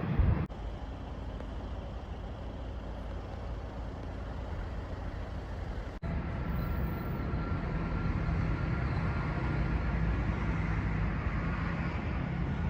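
Train passing on the line with a steady rolling rumble. The sound cuts abruptly about half a second and about six seconds in; after the second cut it is louder, with a faint high whine over the rumble.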